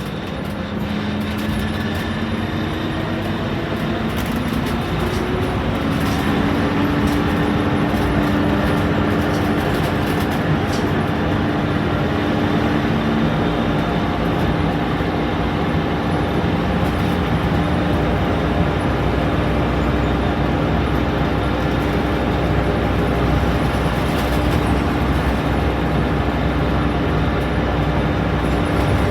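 Scania K230UB Omnilink bus's five-cylinder diesel engine pulling away, its pitch climbing over the first few seconds, then a gear change about five or six seconds in and a steady drone as the bus runs on.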